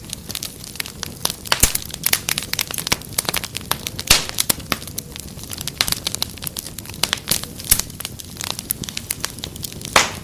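Wood fire crackling: a steady low hiss with frequent sharp snaps and pops, the loudest about a second and a half in, about four seconds in and near the end.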